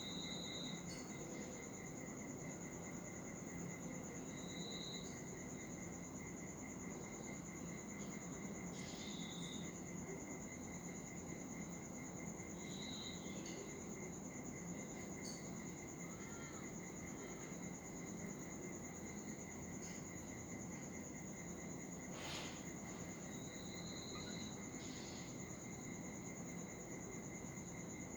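Faint, steady insect trilling: two unchanging high tones, the lower one finely pulsed, over a low background hum. Short high chirps come every few seconds, and a single sharp click comes near the end.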